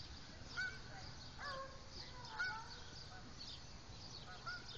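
Birds calling: a few short calls that rise and fall in pitch, four in all, over scattered high chirps.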